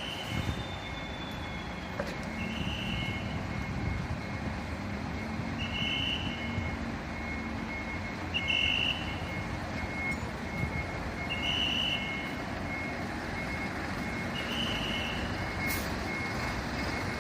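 Fire truck's reversing alarm, short beeps about every three seconds over the engine running.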